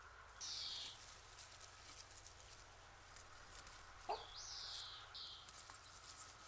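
A bird calling: three short high calls that slide down in pitch, one about half a second in and two more after about four seconds, the second rising before it falls. A short soft knock comes just before the second call.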